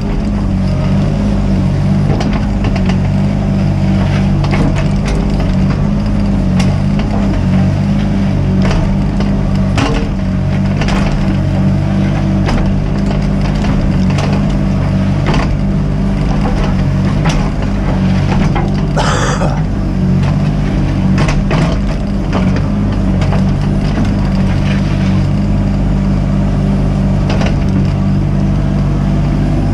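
Mini excavator's diesel engine running steadily under work, with frequent knocks and clacks of the bucket and machine working the ground and a brief hiss about two-thirds of the way through.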